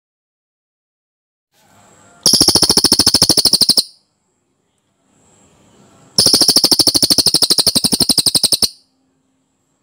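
Velvet-fronted nuthatch (cililin) singing two fast, dense rolling trills of sharp repeated notes, about thirteen a second. The first trill lasts about a second and a half, the second about two and a half seconds. Each is led in by a faint, softer twitter.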